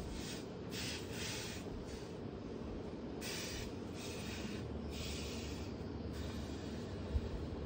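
Repeated short bursts of hissing, each about half a second long, over a low steady hum.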